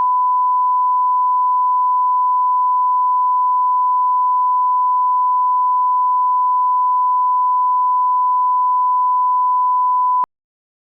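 A steady, pure, single-pitched test tone, like a reference beep, that cuts off suddenly near the end and leaves silence.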